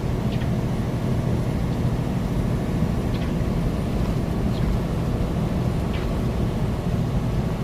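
Semi truck at highway speed heard from inside the cab: a steady low engine-and-road rumble, with a few faint ticks.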